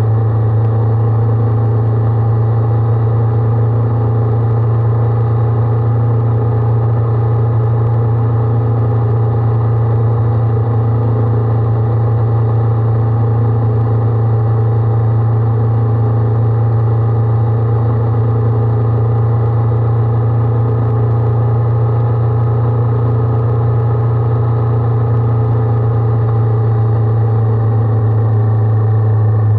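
Honda 400X motorcycle's parallel-twin engine running at steady revs: a loud, constant low drone with no change in pitch.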